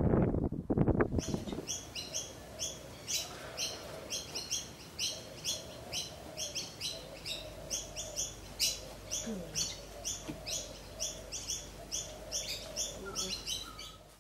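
Wind buffeting the microphone for about a second, then a small bird chirping over and over, about two to three short chirps a second, until the sound cuts off.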